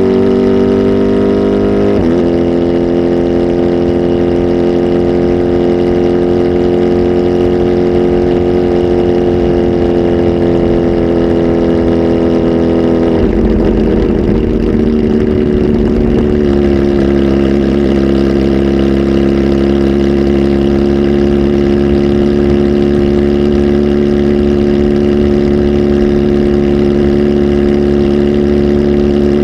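Kawasaki Z H2 SE's supercharged inline-four, flash tuned and on a full exhaust, running steadily at held revs. About 13 seconds in, the revs dip slightly, waver, and settle at a slightly lower steady speed.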